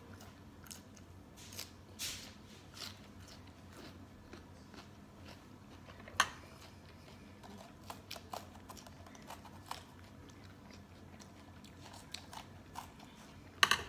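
Close-up biting and chewing of crunchy raw turnip, with scattered small crunches. There is one louder sharp snap about six seconds in and a quick cluster of snaps near the end.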